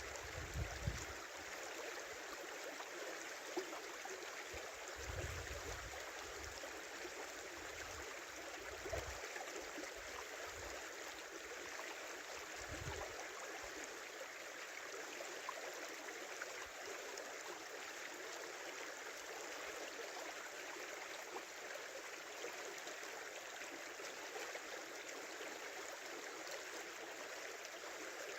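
A small river running steadily, a continuous rushing babble of flowing water. A few brief low thumps come in the first half.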